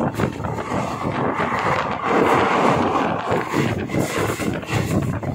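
Passenger train coach running along the track: a steady rumble of wheels and body with irregular rattling and clattering, mixed with wind rushing past. It swells a little about two seconds in.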